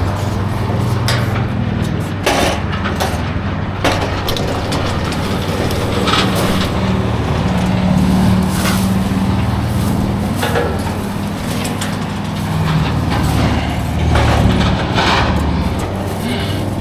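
A vehicle engine running steadily with a low hum, with scattered knocks and clacks over it.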